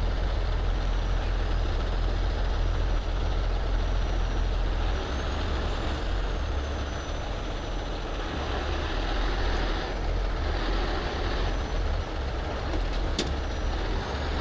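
Heavy tow truck's diesel engine running steadily under load while the wrecker lifts, with a sharp click about 13 seconds in.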